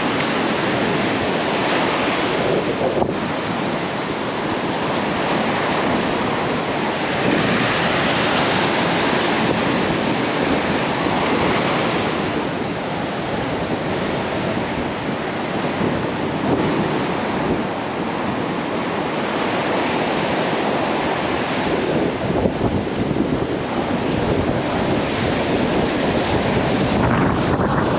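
Ocean surf breaking and washing on the shore in slow swells, with wind buffeting the microphone.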